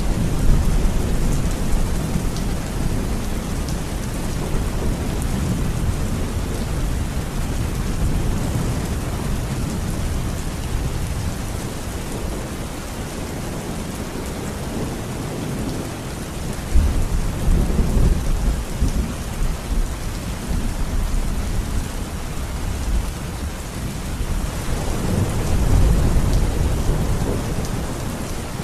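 Steady rain with thunder rumbling low, swelling near the start, again about two-thirds of the way in, and once more near the end.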